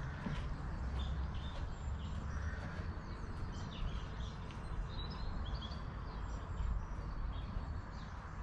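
Birds chirping and calling, short scattered notes over a steady low background rumble.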